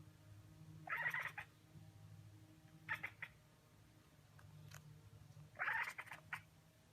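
A domestic cat giving three short, raspy cries about two seconds apart, over a low steady hum.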